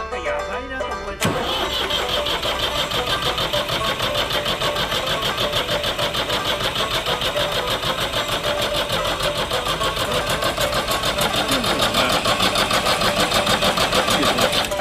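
Ford 4600 tractor engine being turned over by its starter, a rapid even pulsing that begins suddenly about a second in and never catches: the tractor has run out of fuel.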